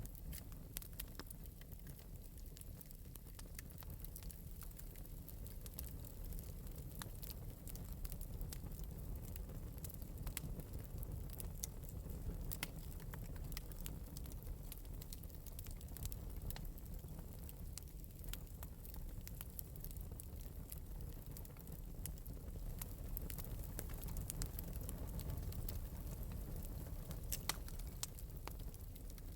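Wood fire in an open metal fireplace crackling and popping, with irregular sharp pops over a steady low rumble of the flames.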